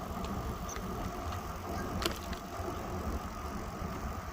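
Steady wind and rolling noise from riding a bicycle, with one sharp click about halfway through.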